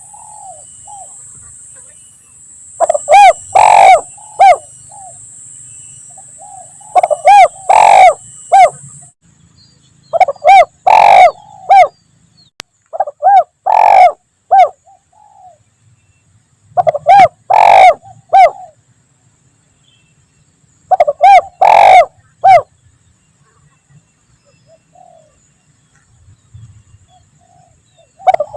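Spotted dove (tekukur) cooing loudly: a multi-note coo phrase repeated about every three to four seconds, six or seven times. It is a lure call used to draw wild doves.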